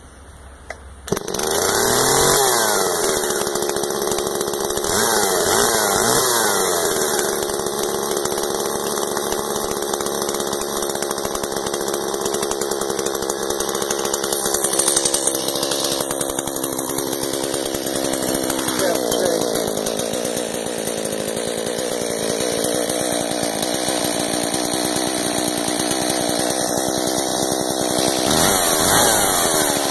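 Stihl 019T two-stroke top-handle chainsaw catching about a second in on a warm start, then running, with its engine revved up and down several times between steadier running.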